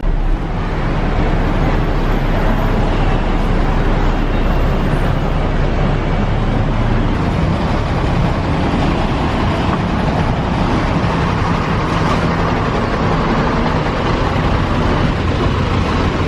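Steady, loud motor-vehicle noise: a low engine hum under a constant rushing noise, as of city traffic or a ride in a bus or train. It starts suddenly and runs on without a break.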